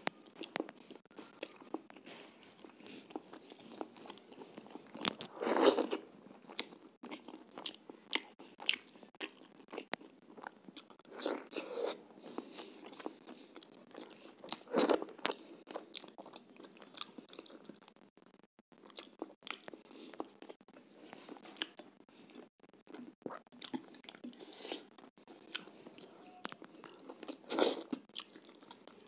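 A person chewing and biting chicken and roti, with many small mouth clicks. There are louder bites about six seconds in, about fifteen seconds in, and near the end.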